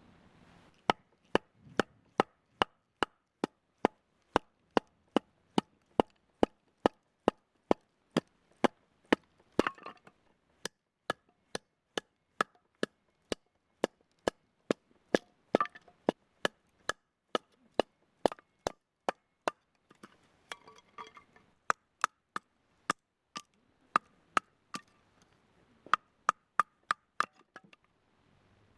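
A long, even series of sharp chopping strikes on wood, about two to three a second, as when firewood or kindling is chopped for the stove or fire pit.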